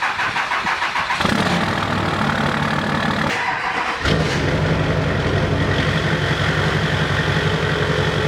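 A vehicle engine being cranked by its starter, catching after about a second and running, faltering briefly around three seconds in, then picking up again about four seconds in and settling into steady running.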